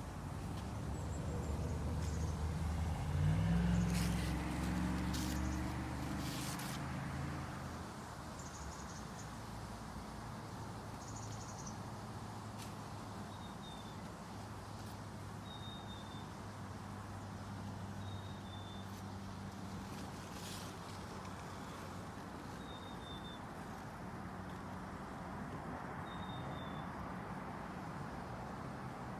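Outdoor ambience with a steady low engine hum that swells for the first several seconds, like a vehicle passing close by, then settles. A bird gives short chirps every few seconds through the second half.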